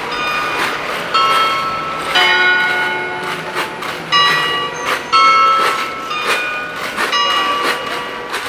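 Bell-like ringing tones, each struck sharply and left to ring, about once a second, over steady street noise.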